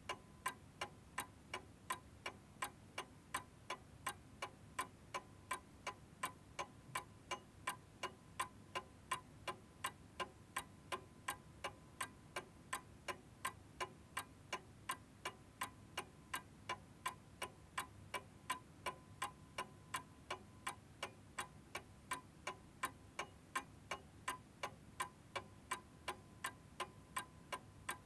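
Domestic clock ticking in a steady, even rhythm, a little over two sharp ticks a second.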